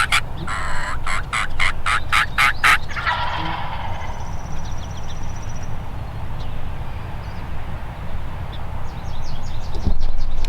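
Turkey yelping: a quick series of about eight sharp yelps over the first three seconds, then quieter, with a faint run of high bird notes near the end.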